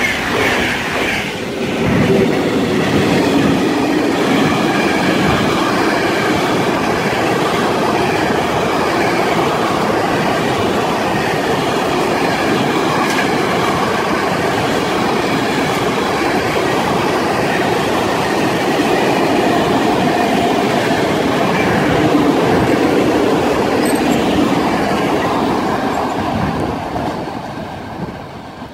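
Tail of a passenger train rushing past, briefly. Then a long mixed freight train, hauled by an ET22 electric locomotive, rolls steadily past, its wagon wheels clattering and rumbling over the track. The sound fades gradually near the end as the last wagons pull away.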